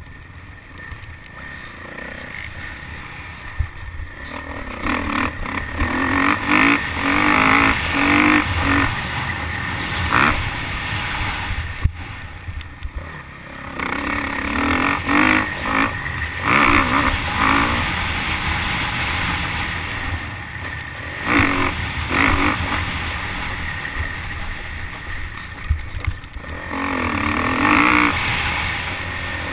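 Motocross bike engine revving hard and backing off again and again as it is ridden, heard from a helmet camera with wind rushing over the microphone.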